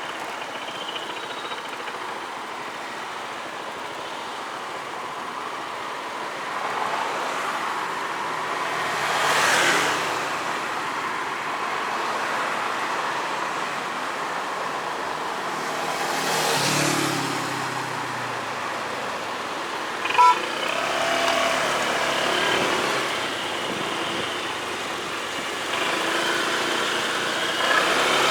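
Motor-vehicle road noise with a motorcycle engine running steadily. Vehicles swell past twice, about ten and seventeen seconds in, and there is a short sharp sound about twenty seconds in.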